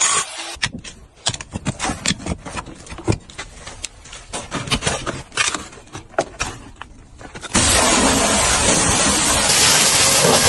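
Irregular sharp ticks and taps for about seven seconds, then a sudden loud, steady hiss of a pressure washer spraying water at a car.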